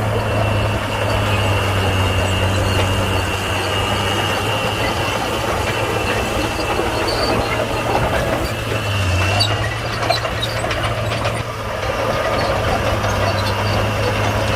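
Komatsu D41P crawler bulldozer's diesel engine running steadily under work, with a thin high squeal from the machine heard over it from about a second in until past the middle.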